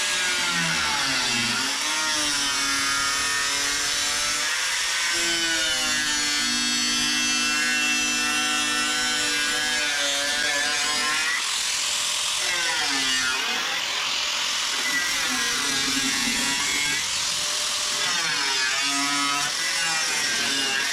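Power tool cutting through rusted steel body panel, running steadily with its pitch sagging and recovering again and again as it is pressed into the metal.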